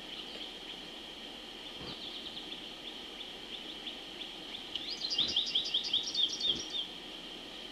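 A bird calls a quick series of about ten sharp, high notes about five seconds in, over a steady high trill of insects.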